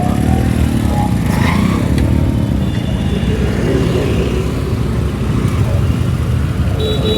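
Steady, loud wind rush and road noise from riding an electric scooter through city traffic, with other vehicles passing. A brief high thin tone, like a vehicle horn or beep, sounds near the end.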